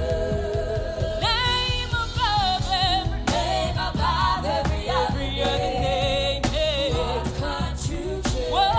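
Live gospel worship music: a singer's voice with vibrato carries the melody over a band with bass and a steady drum beat, with backing voices.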